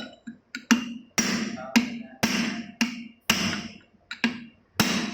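Repeated hammer strikes on metal, about two a second, each ringing briefly before the next.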